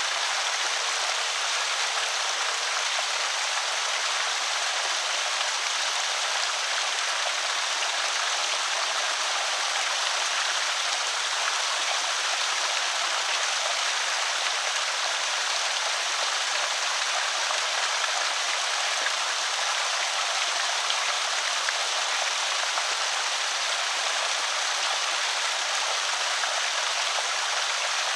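Creek water pouring steadily over a small spillway, an even rushing splash with no breaks.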